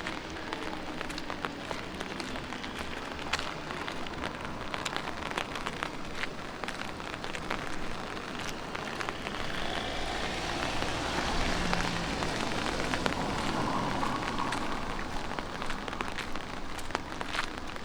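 Light rain falling in a city street: a steady hiss with many scattered close drop hits. The noise swells and grows fuller for a few seconds in the middle.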